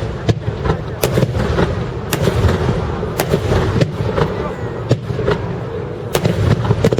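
Aerial fireworks bursting: sharp bangs about once a second at uneven intervals, over a continuous low rumble of further shells.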